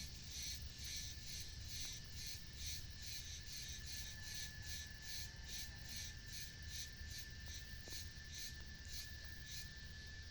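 Insects chirping in a steady rhythm of about three pulses a second, with a steady high whine that comes up about four seconds in, over a low background rumble.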